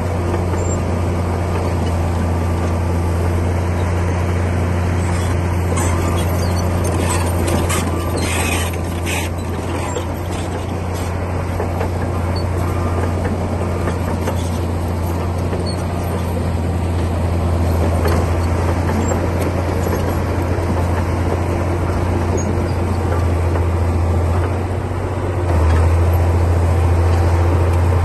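Komatsu D60P bulldozer's diesel engine running steadily under load with a deep drone, a short spell of clanking and scraping about eight to ten seconds in, and the engine getting louder near the end.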